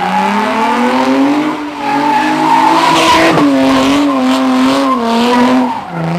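V8 muscle car engine held at high revs during a burnout or drift, its pitch wavering and dipping briefly about three seconds in and again near the end, with tires squealing over it.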